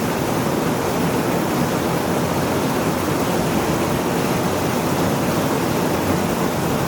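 Heavy rain falling in a steady downpour, a dense, even hiss with no single drops standing out.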